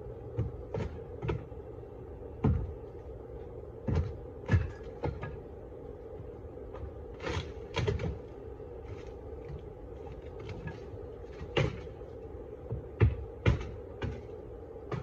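Steady hum of a honeybee colony, with about fifteen irregular knocks and scrapes over it.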